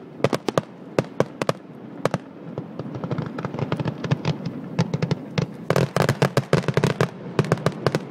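Fireworks going off: a rapid, irregular string of sharp pops and bangs. They bunch up in the first second, thin out through the middle and come thick and fast again from about six seconds in.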